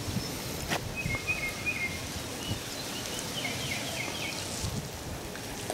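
Steady outdoor background noise with a small bird chirping in short, high calls, a few of them falling in pitch, in two bouts. A single sharp click sounds just under a second in.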